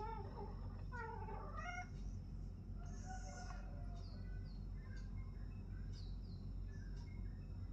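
Young tomcat in heat for the first time, meowing in distress: two bending, drawn-out calls in the first two seconds, another about three seconds in, then fainter short calls. A steady low hum runs underneath.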